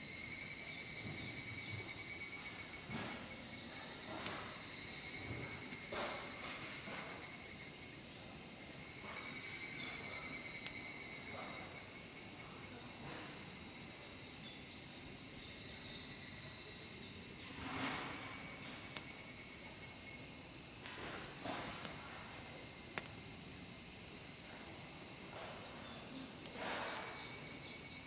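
A dense, steady, high-pitched chorus of insects calling, with scattered faint crackles and pops from a wood campfire.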